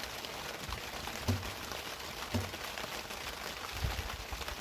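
Heavy rain pouring down steadily, with two dull knocks about a second and two seconds in and some low rumbling near the end.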